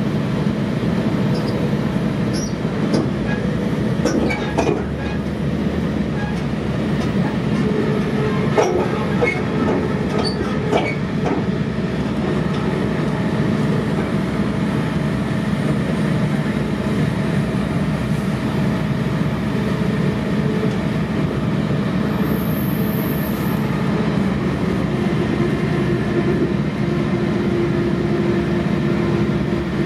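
Sounder commuter train in motion, heard from inside a passenger coach: a steady rumble of wheels on rail. Scattered sharp clicks come in the first dozen seconds, then it runs on evenly.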